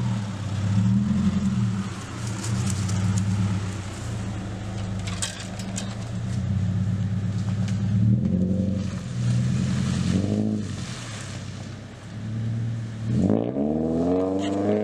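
Subaru engine pulling at low speed through deep ruts, running steadily with the revs rising briefly about eight and ten seconds in and climbing again near the end. Scattered crackling from the ground under the tyres comes a few seconds in.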